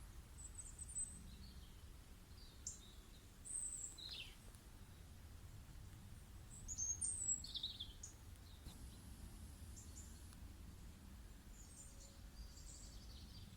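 Faint birdsong: scattered short high chirps and a few quick falling whistles, busiest about seven seconds in, over a steady low rumble.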